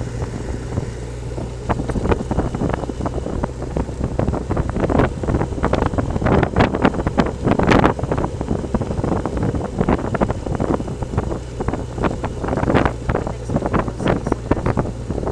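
Motorcycle riding at a steady speed, its engine a constant low hum under wind noise on the microphone, with many sharp knocks and rattles that are thickest in the middle.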